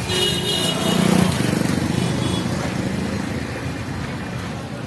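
Small-engined road vehicle running close by in street traffic, its engine loudest about a second in and then slowly fading.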